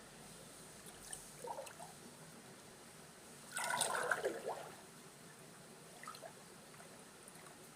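Water sloshing and splashing as someone wades through a shallow river, with one louder splash of a step about halfway through and fainter ones before and after, over a faint steady trickle.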